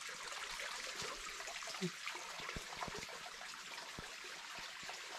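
Small mountain stream trickling over rocks, a steady water hiss with a few faint knocks.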